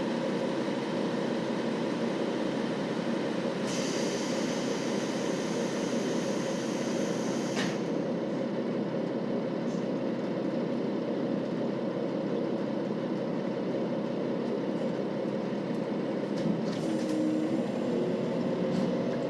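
Diesel engine of a KiHa 40 series 2000-subtype railcar running steadily with an even hum, heard from inside the car. A higher hiss joins in about four seconds in and cuts off with a click around eight seconds, and a few faint clicks come near the end.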